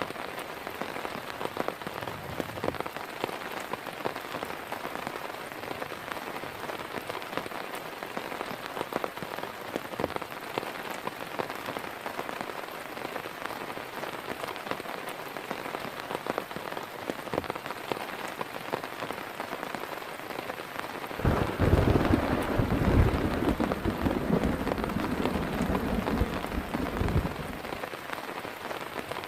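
Heavy rain falling steadily, with a clap of thunder that breaks in suddenly about two-thirds of the way through and rumbles low and loud for about six seconds before fading.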